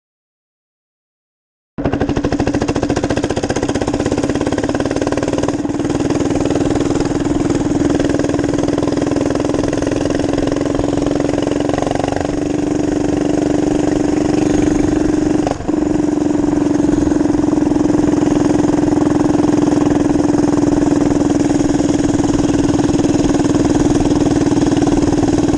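Minibike engine running at a steady pitch, starting after nearly two seconds of dead silence. The pitch steps a little about halfway through, with a brief dip a few seconds later.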